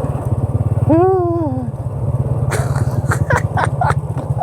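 Honda Dream's small single-cylinder four-stroke motorbike engine running steadily at low speed on a rough gravel road. About a second in, a short rising-and-falling vocal hum. In the second half come several sharp clicks and knocks.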